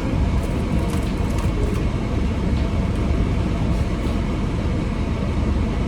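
A steady low rumbling noise with faint scattered ticks above it.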